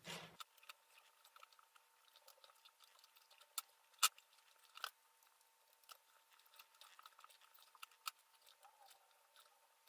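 Faint scattered ticks and clicks of copper winding wire being wound by hand onto a tooth of a brushless motor's stator, with one sharper click about four seconds in.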